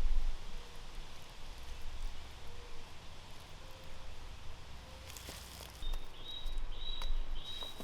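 Wind rumbling on the microphone outdoors, with a few sharp clicks. Near the end a bird gives four short, high chirps.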